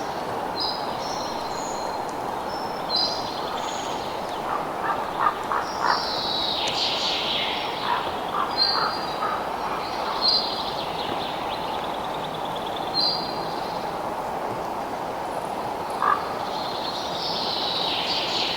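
Birds chirping: short high calls repeated every second or two, with a couple of longer falling calls, over a steady low rushing background.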